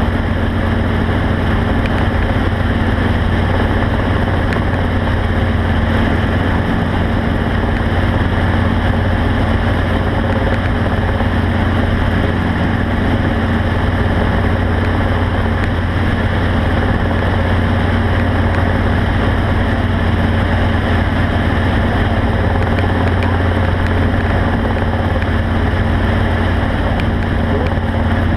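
Steady, unchanging drone of a running vehicle engine with a constant hiss above it.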